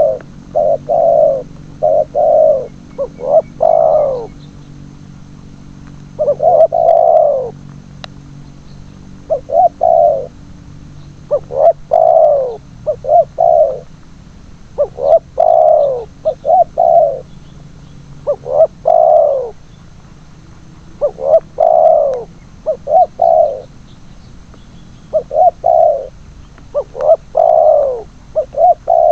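Spotted doves (tekukur) cooing: loud, repeated phrases of several descending coo notes, a phrase every two seconds or so, with brief pauses at about five and twenty seconds in.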